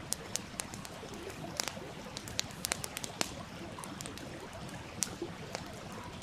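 Wood fire crackling with irregular sharp pops over the steady rush of a stream.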